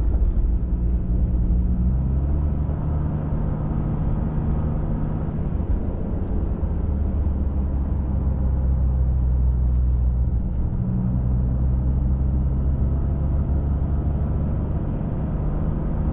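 Pickup truck engine and road noise during an off-road drive, a steady low drone. The engine note steps down a couple of times early on and rises again about two-thirds of the way through, as the truck shifts or changes speed.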